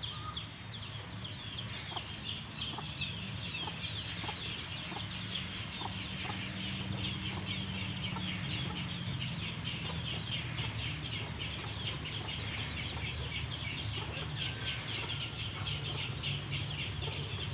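A flock of free-range village chickens clucking, over a dense, steady high-pitched chirping that runs throughout.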